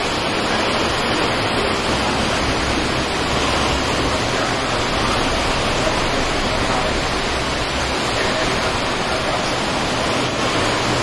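Heavy cyclone rain driven by strong wind: a dense, steady hiss of rainfall and gusts.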